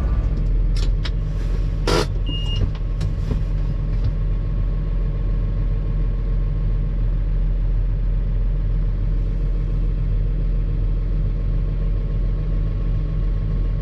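Tractor engine running steadily, with a few sharp knocks in the first few seconds.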